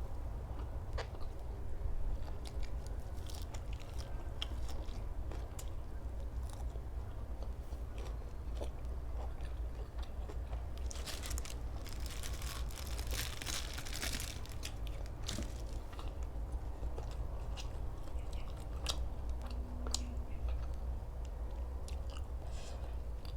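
A person chewing and crunching food close to the microphone, with scattered sharp crunches and a denser run of crunching about halfway through, over a low steady hum.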